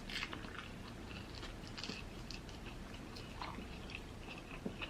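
Close-up chewing of a battered, fried corn dog: soft, irregular mouth sounds with faint crunches.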